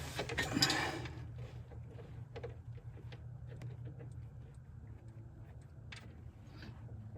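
Scattered light clicks and taps of tools and pipe fittings being handled while a needle valve is fitted to a hydraulic cylinder fitting, with a louder rustle and clatter in the first second over a steady low hum.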